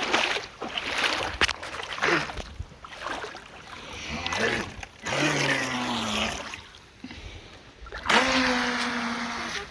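Radio-controlled boat running on the water: its motor whines in surges and drops in pitch as it eases off, with bursts of water rush and splashing from the hull. Near the end the motor holds a steady whine for about a second and a half.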